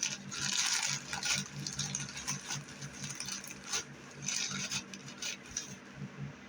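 Easter basket grass being handled and mixed, an irregular crinkly rustling with small clicks, over a steady low hum.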